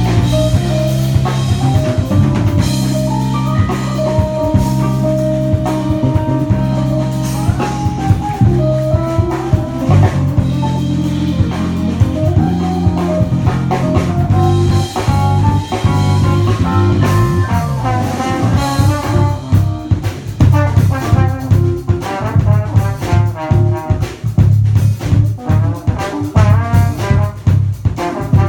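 A band playing with a drum kit and brass horns, the horn line carrying the melody over a heavy bass. The playing grows busier in the second half, with quick runs of notes and sharper drum hits.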